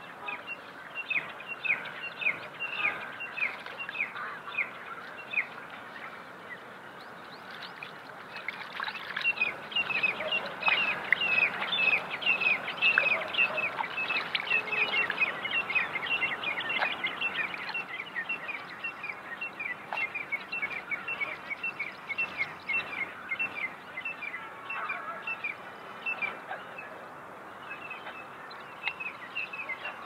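A bird calling over and over in short downward chirps, about two a second. Underneath, water splashes as broccoli and tomatoes are washed by hand in a basin of water.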